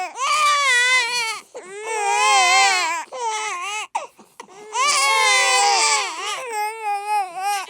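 Baby crying hard: long, high wails with a wavering pitch, broken by a short gasping pause partway through, then wailing again.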